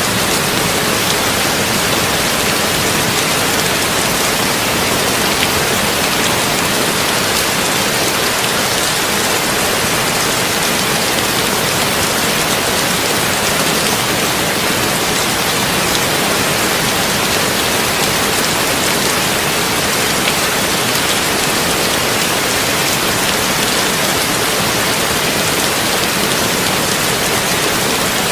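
Heavy rain falling on a tin roof, a steady, even wash of many drops with no thunder.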